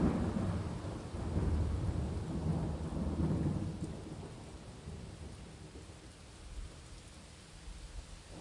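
Thunder rolling over steady rain: a low rumble that swells again a second or so in and fades away over the second half, leaving the hiss of rainfall.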